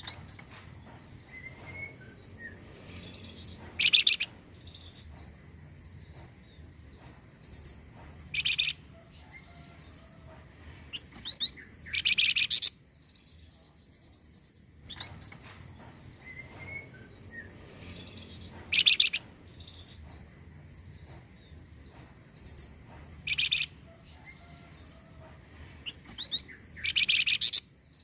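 Recorded song of a flamboyan songbird, used as a lure to set other birds singing: high chirps and short trills, with louder bursts every few seconds. The same sequence repeats about halfway through, as a looped track.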